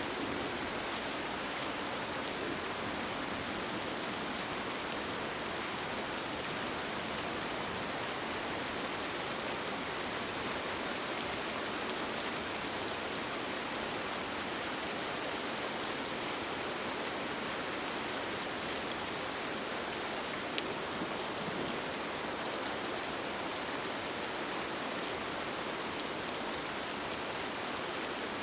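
Steady rain, an even hiss with many small drop ticks, as of rain falling on a tent.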